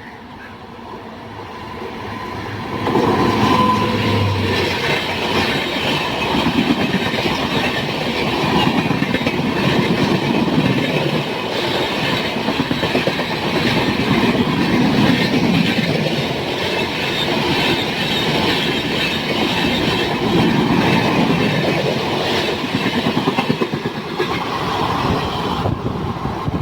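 Mumbai–Howrah Duronto Express passenger train running past at speed: the rolling noise of its coach wheels on the rails builds over the first three seconds, then stays loud and steady as the coaches go by.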